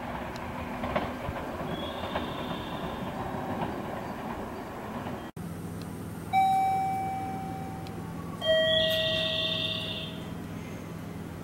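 Train running over the rails with a rattling clatter of wheels on the track. This cuts to a low steady hum, over which a two-note falling electronic chime sounds, ding then dong, each note ringing on and fading slowly.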